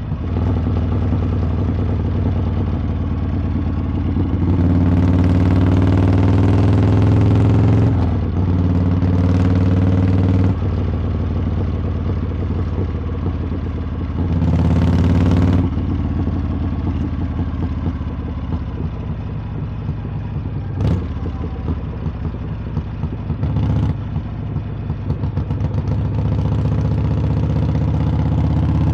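Harley-Davidson V-twin engine and exhaust under way, the throttle opened several times with the pitch rising each time: about five seconds in, around eight seconds, around fourteen seconds and again near the end. It eases back to a steadier, lower note in between, and a brief sharp click comes about two-thirds of the way through.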